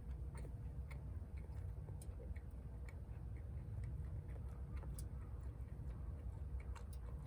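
Wood fire crackling in a wood gas stove, with small irregular pops and ticks over a steady low rumble.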